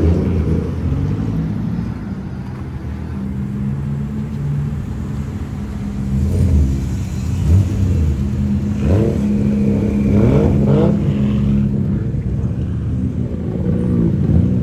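Car engine running, with the revs rising and falling a few times about nine to eleven seconds in.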